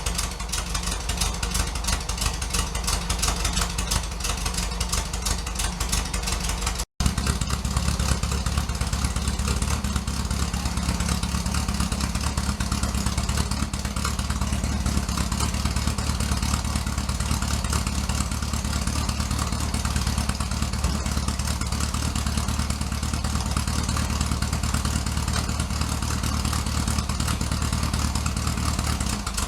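A loud engine running steadily, with a momentary dropout about seven seconds in.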